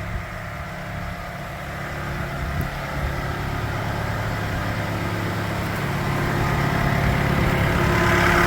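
Bobcat T64 skid steer loader's diesel engine running steadily, growing gradually louder.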